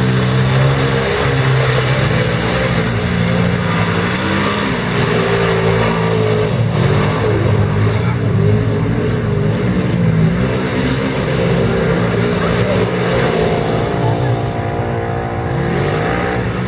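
Quad bike (ATV) engines running hard, revving up and down so that their pitch keeps rising and falling.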